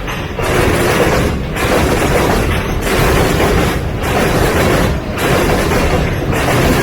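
Freight train passing close by: loud rumbling and rushing noise that dips briefly about once every second or so.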